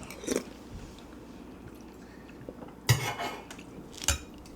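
Metal spoon clinking against a soup bowl twice, about three seconds in and again a second later.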